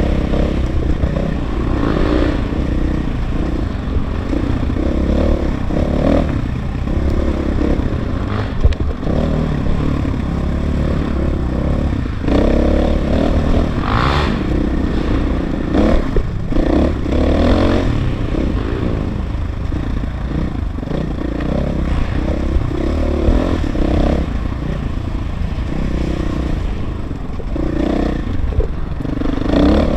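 KTM 500 EXC's single-cylinder four-stroke engine running under load as the dirt bike is ridden off-road, revving up and down with the throttle. A few sharp knocks and clatter come from the bike over rough ground.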